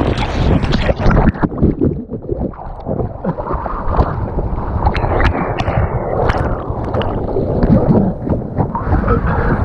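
River water rushing and splashing around an inflatable whitewater kayak, with irregular sharp splashes throughout.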